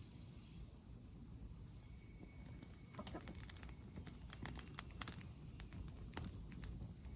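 Faint outdoor ambience: a steady high hiss, with scattered small clicks and taps from about three seconds in.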